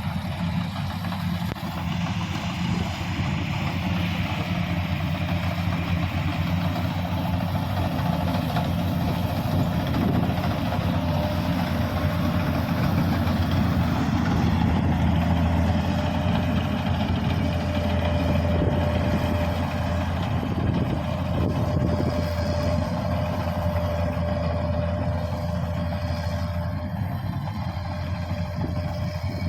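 Kubota DC-series combine harvester's diesel engine running steadily under load, a continuous low drone. A thin steady whine sits above it from about a third of the way in until near the end.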